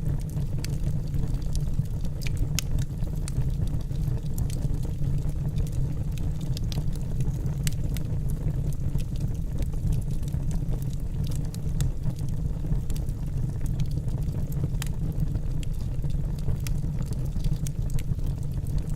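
Wood fire burning in a fireplace: a steady low rumble of flames with scattered crackles and pops from the burning logs.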